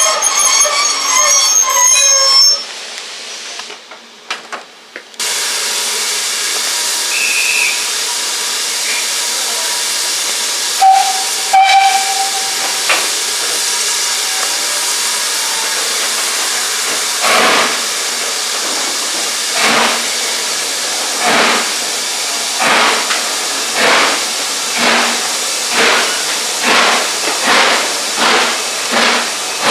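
Steam locomotive standing in the platform with a steady hiss of steam and a brief whistle, then starting away: its exhaust beats begin slowly and quicken steadily over the last dozen seconds.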